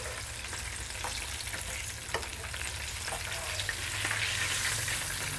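Breaded chicken pieces frying in hot oil in a skillet, a steady sizzle near the end of their frying time, with a couple of sharp clicks of metal tongs against the pan about one and two seconds in.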